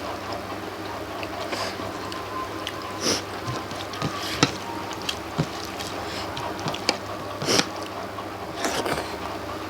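Eating sounds: a scattering of wet squishes, smacks and small clicks from rice and fish curry being mixed and chewed, over a steady low hum.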